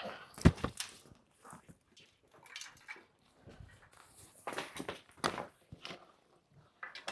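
Netting and fabric being handled and pulled over a padded bed frame, with scattered light knocks and clicks as the netting roof is hooked on.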